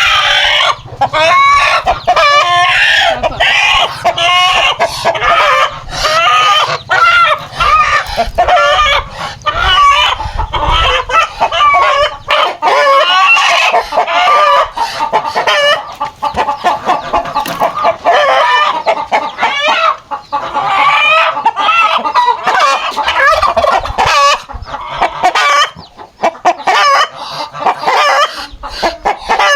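A flock of domestic chickens clucking and calling, many overlapping calls without a break.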